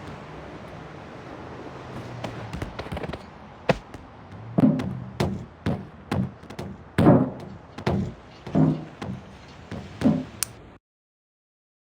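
A string of irregular knocks and heavier thuds, about a dozen, over a steady low hum; the sound cuts off suddenly near the end.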